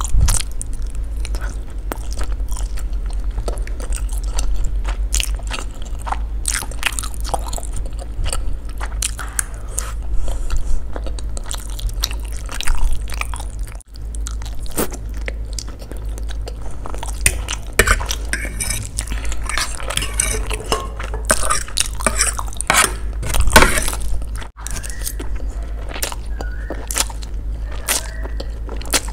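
Close-miked chewing and biting of spicy instant noodles, a dense run of wet smacks and clicks from the mouth, over a steady low hum.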